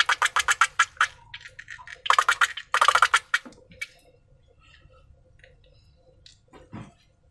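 Slime being worked by hand, giving a fast run of small sticky clicks, then two short runs about two and three seconds in, then scattered faint clicks and a soft thump near the end.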